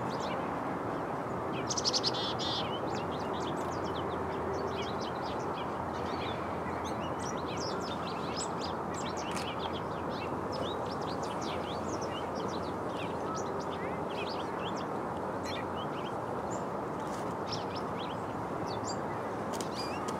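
Small birds chirping: many short, high chirps scattered throughout, with a brief burst about two seconds in, over a steady low background rumble.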